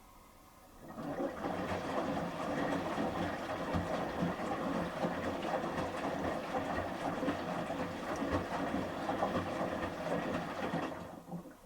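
Samsung front-loading washing machine's drum turning during the final rinse, with shirts and rinse water sloshing and tumbling and soft low knocks. It starts about a second in and stops near the end, a typical rinse tumble between pauses.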